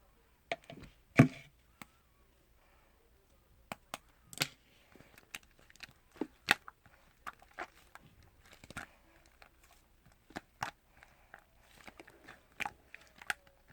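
Close-up eating sounds: scattered sharp clicks and crunchy taps of food and utensils at an irregular pace, the loudest about a second in.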